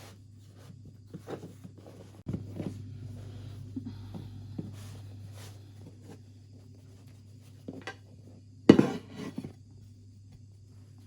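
Scattered light knocks and handling noises, with one sharper, louder knock and brief rattle near the end, over a steady low hum.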